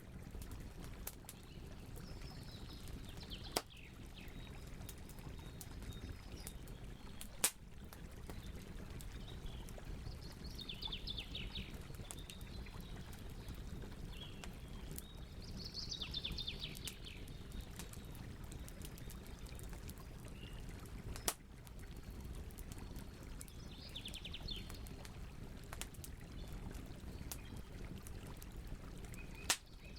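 Wood campfire burning with a low steady rush and occasional sharp pops, four of them standing out loudly. A songbird sings short falling trills five or so times, with a faint steady high chirring like crickets.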